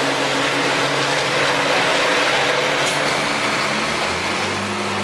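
Fórmula Truck racing trucks' diesel engines running on the circuit: a steady, loud engine drone under a broad rushing noise.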